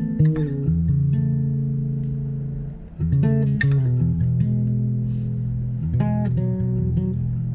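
Guitar playing the instrumental intro of a song, held chords that change every second or two, with a brief dip just before the third second and then a fresh strummed chord.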